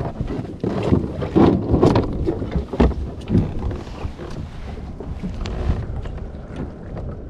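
Wind buffeting the microphone and sea water slapping and splashing against a kayak, in uneven surges with a few sharp knocks, loudest in the first few seconds.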